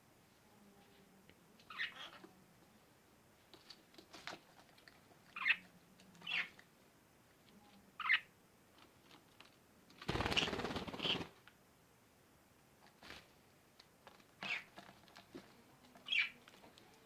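Pet parrots, a green-cheeked conure and budgies, giving short, separate chirps every second or two. About ten seconds in there is a louder rustle lasting about a second.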